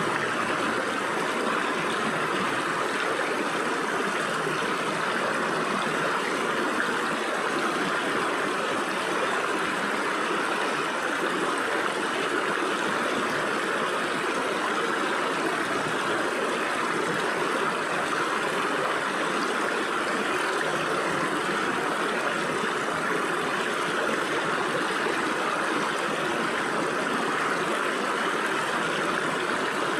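Stream water flowing and splashing through gaps between rocks, a steady even rush.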